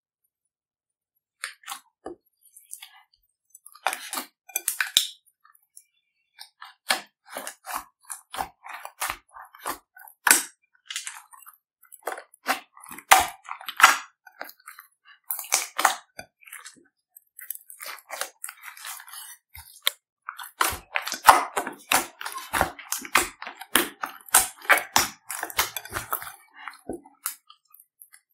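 Slime being squeezed and stretched by hand, with irregular sharp pops and crackling clicks from trapped air. The pops are sparse at first and come thick and fast in the last third.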